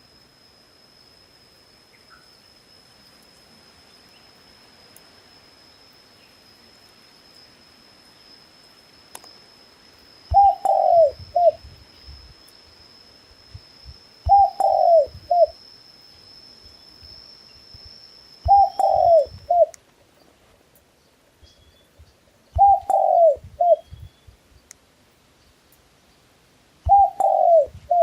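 A dove cooing: five short phrases about four seconds apart, starting about a third of the way in, each a falling note followed by a shorter one. A thin, steady, high-pitched whine sounds faintly underneath and stops about two-thirds of the way through.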